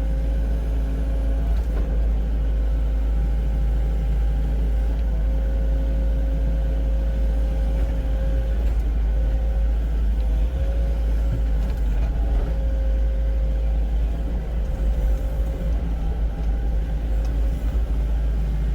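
Hydraulic excavator running under load with a steady low rumble and a held, slightly wavering whine while it reaches out and drags soil to level the ground during grading.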